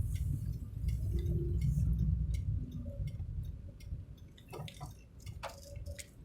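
Vehicle driving in rain: a steady low road rumble with scattered raindrops ticking on the vehicle. Two short squeaks come past the middle.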